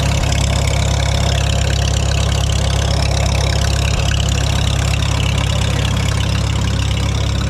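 Farmall H tractor's four-cylinder engine running steadily at idle, an even low rumble.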